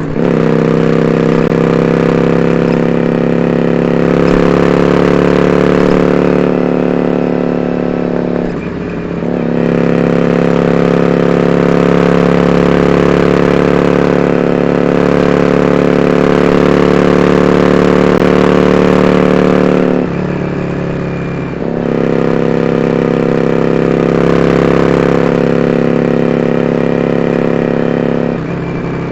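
Yamaha XVS400C Drag Star Classic's air-cooled V-twin running loud through dual open-end Supertrap disc mufflers under a steady cruising throttle. The engine note dips and shifts briefly about nine seconds in, again around twenty seconds, and near the end.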